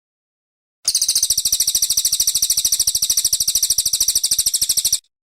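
Cililin coklat songbird giving one rapid, even, high-pitched trill of about seventeen notes a second. It starts about a second in, lasts about four seconds and cuts off abruptly.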